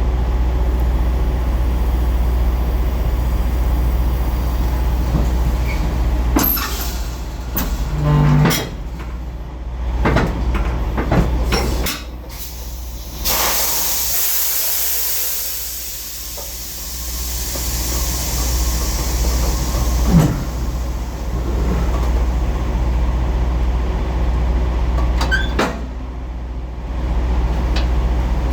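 Semi-truck diesel engine running at a low, steady rumble as the tractor-trailer backs up, with scattered clicks and knocks. About 13 seconds in, a sudden hiss of air from the air brakes fades away over several seconds.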